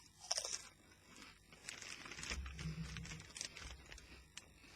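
Potato crisps crunching and a crisp packet crinkling: a sharp crackle near the start, then a run of short crackles and rustles.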